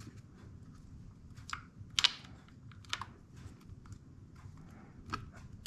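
Scattered light clicks and taps of small metal parts: power valve cable ends and fittings being worked into place by hand, with a sharper tick about 2 s in and another just before 3 s.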